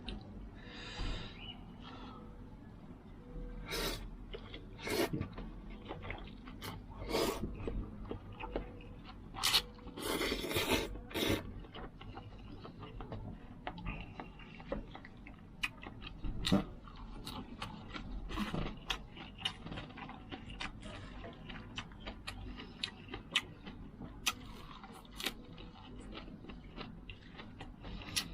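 A person eating noodles close to the microphone: chewing and slurping, with many sharp clicks and scrapes of utensils against the bowl, and a longer burst of slurping about ten seconds in.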